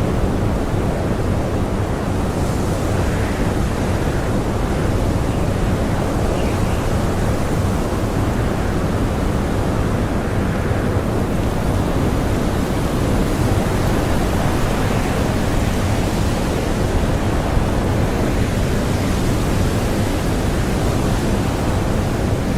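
Strong blizzard wind howling and blowing loose powder snow: a dense, steady rushing noise that swells gently in gusts a few times.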